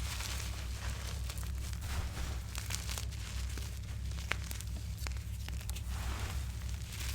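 Blocks of reformed gym chalk being crushed, giving a continuous crumbly crackling with many small crunches and one sharper snap a little past halfway. A steady low hum runs underneath.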